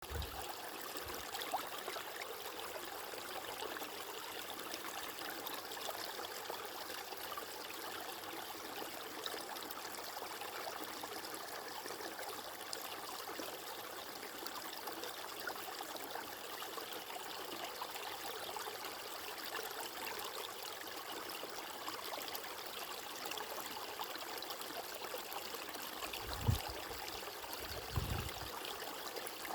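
Steady flowing water, a stream or trickle running evenly, with two brief low thumps near the end.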